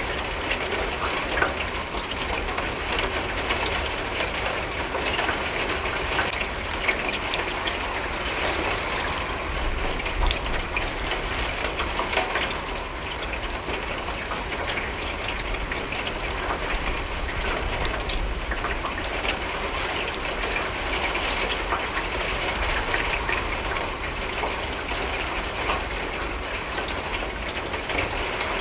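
Steady rain falling against a window, a continuous hiss with many small drop ticks over a low rumble.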